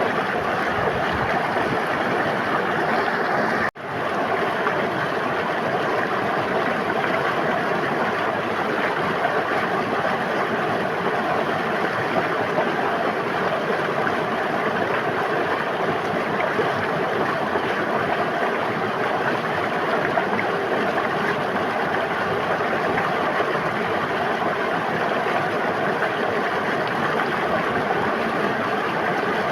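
Steady rush and babble of flowing river water. It cuts out for a split second about four seconds in, then resumes.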